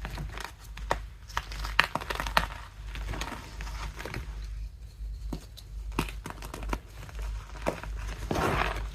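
Blocks of reformed gym chalk (magnesium carbonate) being crushed: irregular crisp crunches and crackles, with a denser stretch of crumbling near the end.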